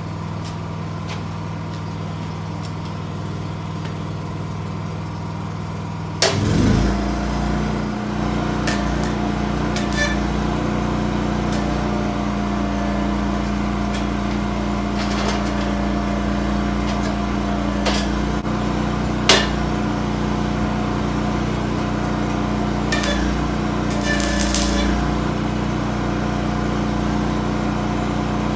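Steady machine or motor hum. About six seconds in there is a sharp knock and the hum shifts to a lower, rougher tone, with scattered sharp metallic clicks and taps over it.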